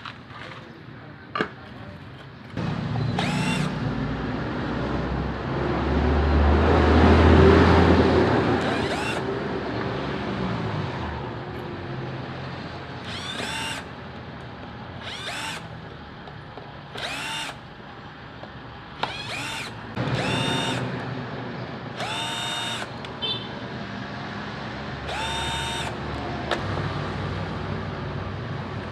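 Handheld power drill-driver spinning out the screws of a portable subwoofer's case, in about nine short whirring spins that rise and fall in pitch. A longer, louder stretch of rumbling comes from handling the case a few seconds in.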